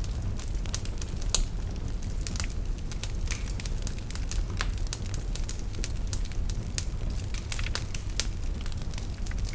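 Wood fire burning in a fireplace: a steady low rumble of flames with frequent irregular crackles and pops, one louder pop about a second and a half in.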